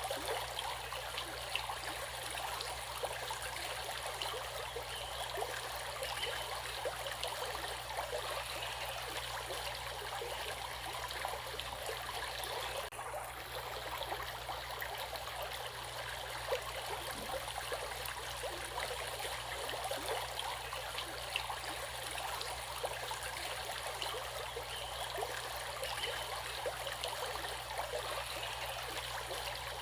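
Water running in a stream: a steady rush full of small splashes and gurgles.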